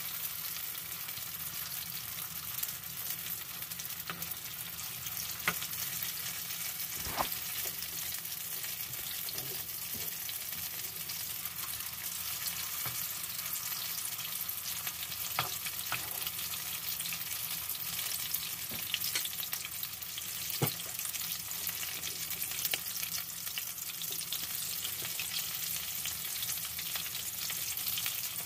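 Eggplant, egg and pulled-pork omelette batter (tortang talong) frying in hot oil in a pan, a steady sizzling hiss. A few sharp taps of the spatula against the pan stand out through it.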